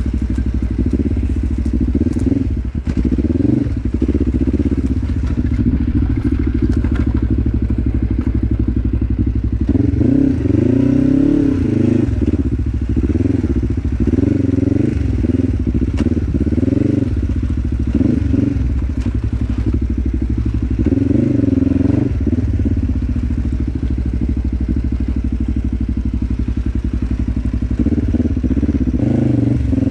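2006 Kawasaki KLE 500's parallel-twin engine running at low revs under light throttle. Its pitch rises and falls repeatedly in the middle stretch as the throttle is opened and closed, with a few light knocks and clatter over the top.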